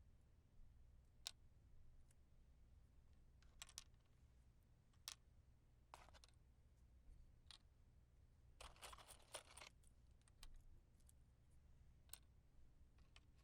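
Faint, scattered clicks and taps from handling wooden matches, with one rushing, hiss-like noise about a second long around nine seconds in.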